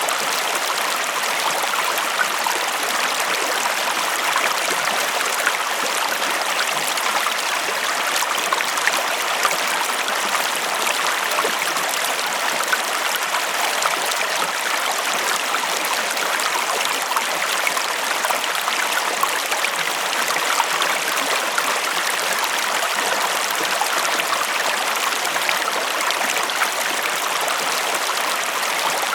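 River water flowing over stones, a steady rushing with fine splashes and gurgles.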